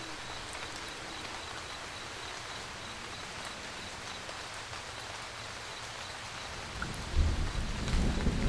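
Steady rain pattering, with a low rumble of thunder rolling in about seven seconds in and becoming the loudest sound.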